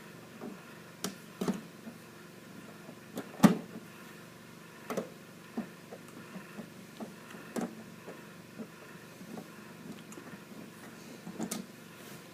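Scattered light clicks and knocks as the plastic parts of an old inkjet printer are handled during disassembly, with the sharpest knock about three and a half seconds in.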